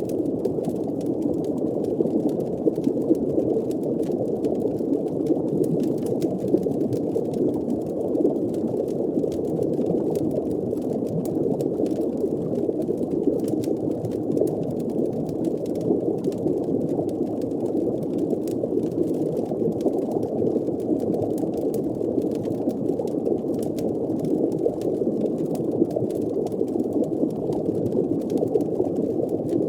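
Underwater fireplace ambience: a steady, muffled wash of deep water, with faint scattered crackles throughout.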